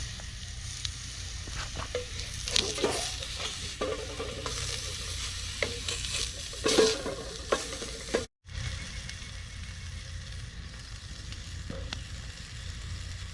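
Food frying in a pan with a steady sizzle, while a utensil scrapes and taps against the pan now and then. The sound cuts out briefly about eight seconds in.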